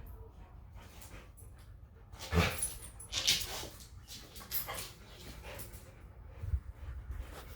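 Dogs playing, with a few short, irregular vocal outbursts, the loudest about two and a half and three and a half seconds in.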